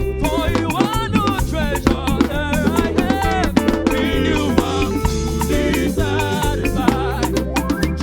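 Live gospel band playing an upbeat African-style praise song: a stepping bass line and drums under a wavering lead melody, with some singing.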